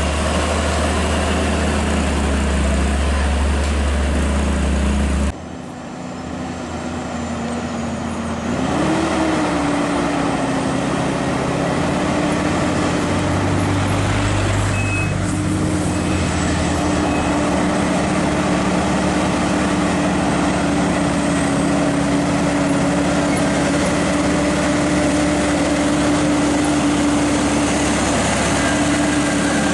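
Heavy diesel truck engines running. A deep engine sound cuts off suddenly about five seconds in; a few seconds later another engine's note rises briefly and then holds steady.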